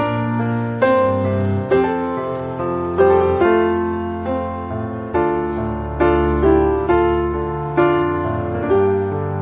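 Background piano music, slow and gentle, with a chord or note struck about once a second and left to fade.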